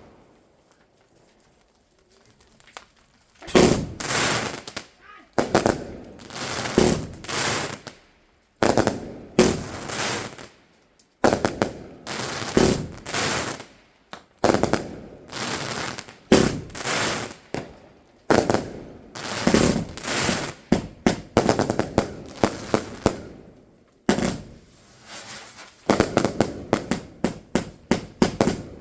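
Fireworks going off in rapid volleys of sharp bangs, starting a few seconds in and continuing in clusters about a second apart with brief gaps.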